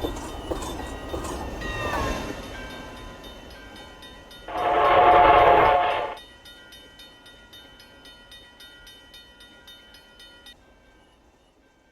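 Train running past with a low rumble, then one loud horn blast of about a second and a half. After it the train fades away with faint regular clicking of the wheels.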